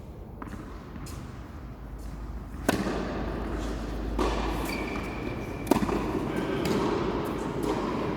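Tennis balls being struck with rackets and bouncing on the court during a doubles rally: a series of sharp pops, the two loudest about three seconds apart.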